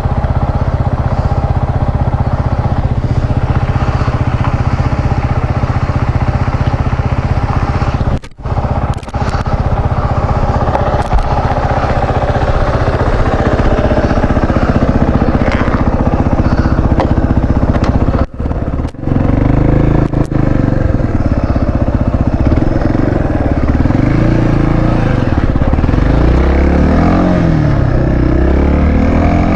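Motorcycle engine running under way, with rushing wind noise on the microphone. The sound cuts out briefly twice. In the last third the engine note rises and falls several times as the throttle is opened and closed.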